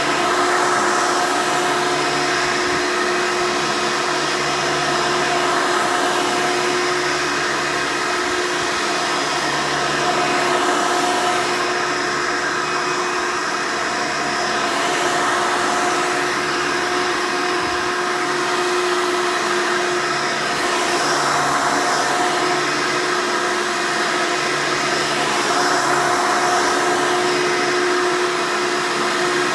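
Hoover Elite upright vacuum cleaner running: a steady motor whine over rushing air, its low tones shifting every few seconds.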